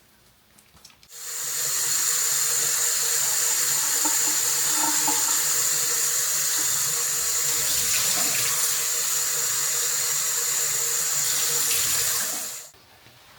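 Water tap running into a sink: turned on about a second in, running steadily with a thin high whistle through the rush of water, and turned off near the end.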